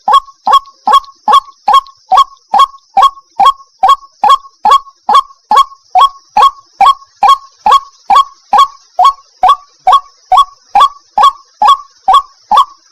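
White-breasted waterhen (ruak-ruak) calling in a long, regular series of short, loud notes, a little over two a second, each one falling in pitch. A steady faint high hiss runs underneath.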